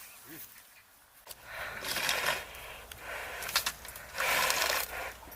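A cow drinking water, with irregular noisy bursts of slurping and sucking that start about a second in and come in a few louder spells.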